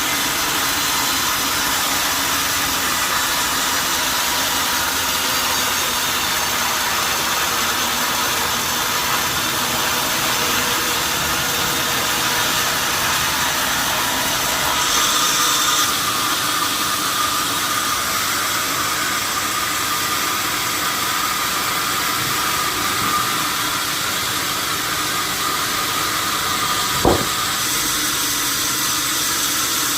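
Sawmill machinery running steadily with a loud hissing noise as a log is sawn. About halfway through a steady higher whine sets in, and there is a single sharp knock near the end.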